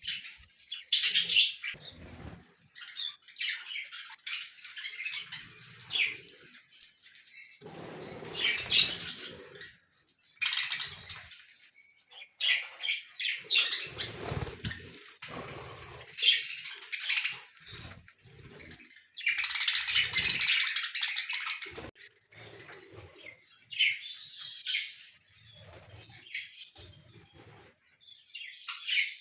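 A colony of budgerigars chirping and chattering in irregular bursts, with bouts of wing flapping.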